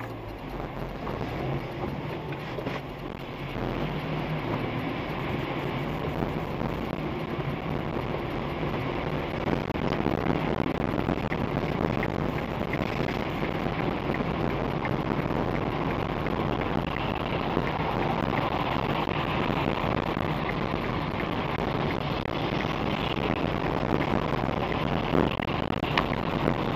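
A car driving on a wet road: a steady hiss of tyres on the wet surface with an engine hum underneath. It builds up over the first four seconds or so, then holds steady.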